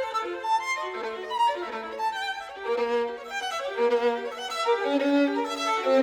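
Music: a violin playing a fast melody of short, quickly changing notes.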